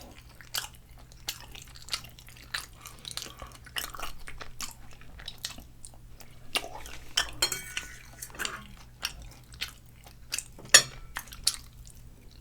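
Close-miked chewing and mouth sounds of a person eating, with irregular sharp clicks and smacks and now and then a light knock of cutlery on a dish.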